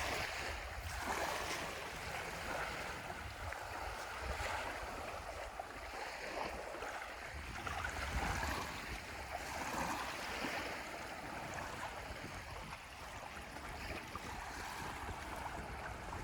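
Small waves washing onto a beach, swelling and easing every few seconds, with wind rumbling on the microphone.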